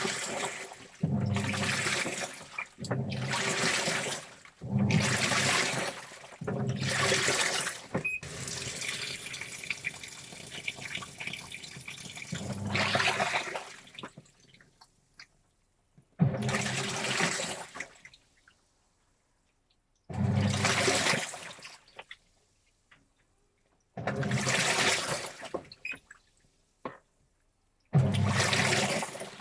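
Washing machine washing a load of T-shirts: water and wet clothes sloshing in the turning drum in repeated bursts, about one every two seconds at first, then a longer unbroken stretch, then bursts every four seconds or so with short pauses between.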